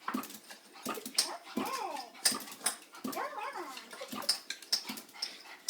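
A dog whining, a series of short high whimpers that rise and fall in pitch, with a few sharp clicks between them.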